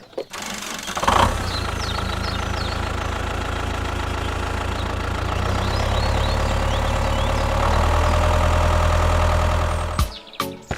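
A tractor engine runs steadily. It picks up with a sharp burst about a second in, gets a little louder near the end, and then cuts off suddenly. Faint bird chirps sound over it.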